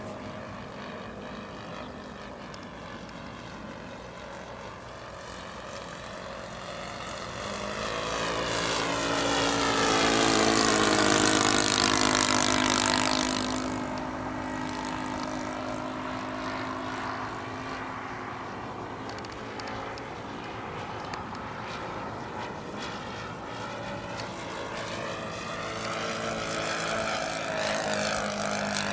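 Propeller airplane, a Cessna L-19 Bird Dog, flying past. Its engine drone builds to its loudest about ten to twelve seconds in, eases off, then grows louder again near the end.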